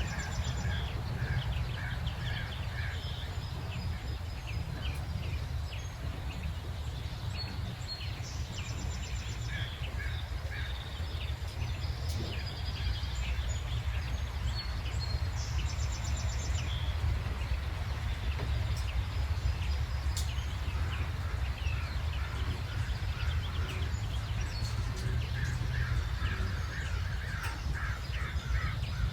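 Several songbirds chirping and trilling in a dawn chorus, with short rapid high trills now and then, over a steady low background rumble.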